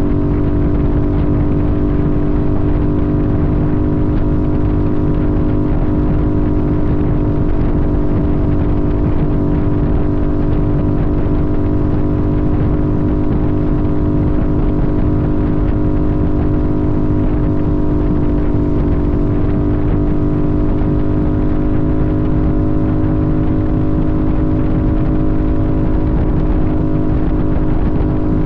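Sportbike engine running at a steady cruising speed, its pitch holding almost constant and easing slightly lower near the end, over a heavy low rush of wind and road noise.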